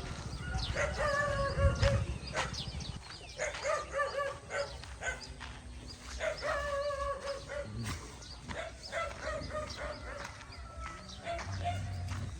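An animal calling three times, each call about a second long and steady in pitch, with fainter calls after, among short bird chirps.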